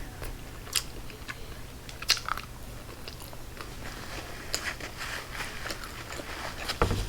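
Close-miked eating: biting and chewing of food, with scattered short wet clicks and smacks, and a louder thump near the end.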